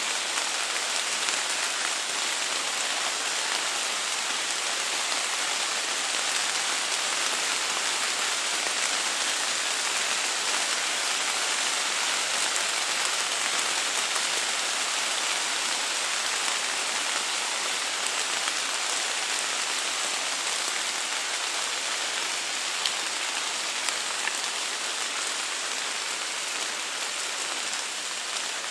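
Steady rain falling on the forest leaves and leaf litter, an even hiss with no change in strength, with a couple of faint ticks of single drops about three-quarters of the way through.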